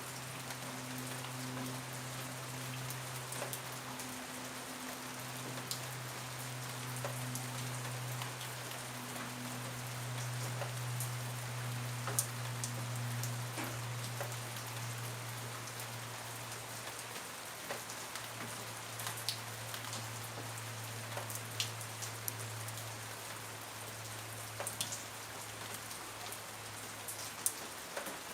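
Steady rain falling on a surface, with scattered sharper drops striking near the microphone. A steady low hum runs underneath.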